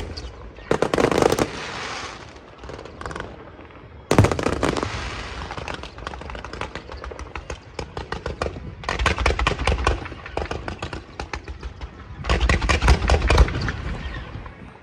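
Aerial fireworks going off in rapid volleys of sharp cracks and bangs, like rapid gunfire. The heaviest volleys come about 4 s in, around 9 s and around 12 to 13 s, with scattered crackling between them.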